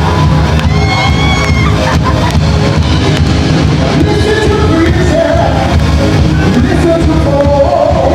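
Live band playing loud amplified music with a singer's voice over it, with some shouts from the audience.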